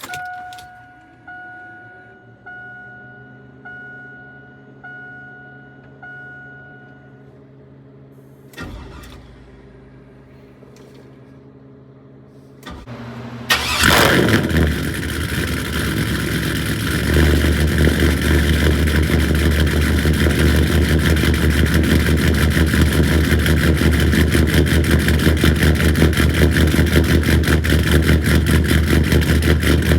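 Truck dash warning chime dinging about six times, roughly once a second, after the key is switched on. About 13 seconds in the starter cranks briefly and the engine catches on a cold start. It settles into a loud, steady idle with a heavy low rumble.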